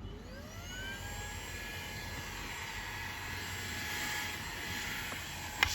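Fanttik V8 Apex cordless handheld vacuum switching on: its motor whine rises in pitch over the first second or so, then runs steadily at speed over a rushing hiss. A sharp knock near the end.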